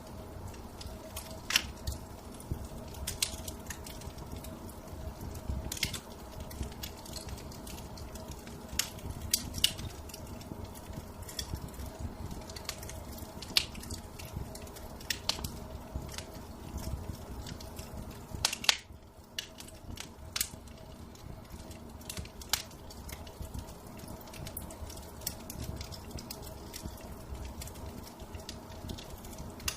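Wood fire crackling in a fireplace: irregular sharp pops and snaps over a low steady rumble, with one louder pop a little past halfway.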